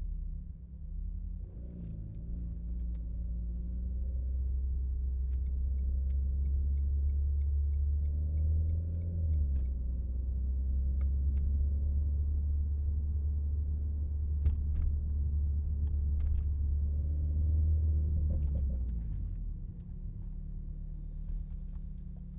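Renault Mégane RS Trophy's turbocharged four-cylinder engine pulling away and driving under load, a deep steady drone that swells about a second and a half in, breaks briefly about nine seconds in, then eases off to a lower hum a few seconds before the end. A few faint short clicks sound over it.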